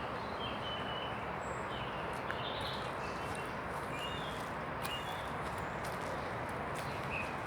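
Steady rush of wind and rain in woodland, with short bird chirps scattered through and a few light clicks.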